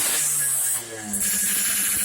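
Yamaha RX-King 135 cc two-stroke single revved through an aftermarket expansion-chamber exhaust: a throttle blip whose pitch falls away, a brief drop a little under a second in, then the engine picks up again and holds a steady note, with a strong high hiss over it.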